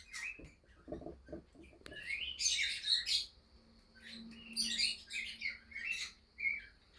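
Cockatiels chirping in short, high calls that come in two clusters, about two seconds in and again about four to six seconds in.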